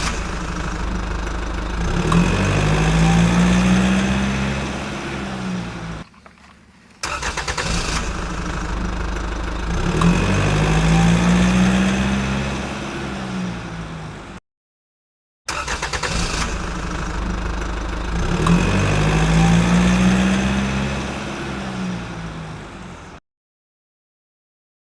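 A vehicle engine starts and revs up, its pitch rising and then sinking back, before it cuts off. The same recording plays three times in a row with short silent gaps between.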